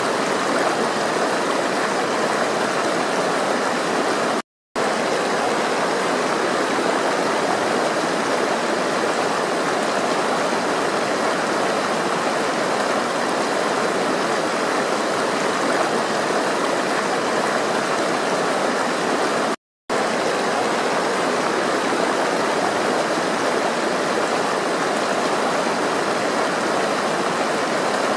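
Flowing water rushing steadily, a stream-like wash. It cuts out to silence twice for a split second, about a fifth and two thirds of the way through.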